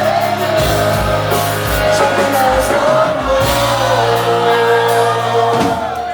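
Live rock band playing an instrumental passage: a sustained, bending lead line over bass and a steady drum beat.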